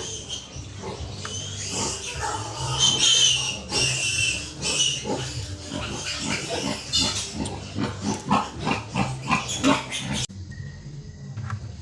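Piglets squealing shrilly, then grunting in quick short bursts. The sound cuts off suddenly near the end.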